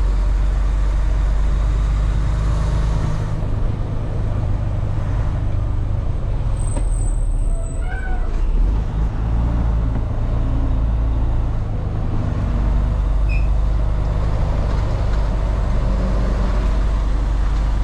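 Semi truck's diesel engine running with a steady low drone as the tractor creeps through the yard, with a brief high squeal about seven seconds in.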